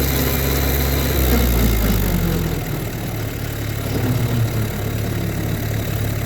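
Massey Ferguson 1725 compact tractor's diesel engine running, then dropping to a lower, steady idle about two and a half seconds in.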